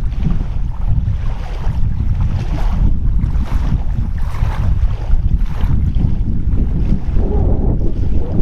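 Strong wind buffeting the microphone: a heavy, continuous low rumble with gusty rushes of noise that rise and fall about once a second.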